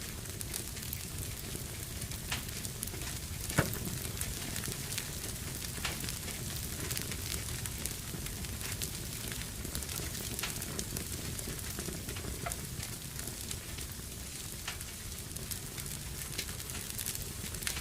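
Fireplace fire burning steadily, a low rumble under scattered small crackles, with one sharp, loud pop about three and a half seconds in.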